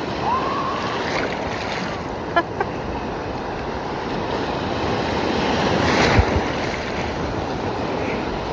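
Storm surf on the sea, waves rushing and breaking with wind on the microphone; the surge builds to a breaking wave about six seconds in.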